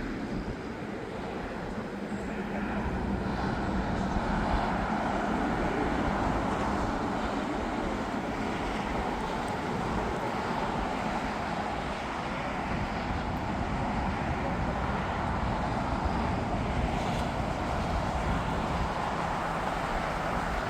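Jet airliner engine noise, a steady rushing rumble that swells about four seconds in and then holds level.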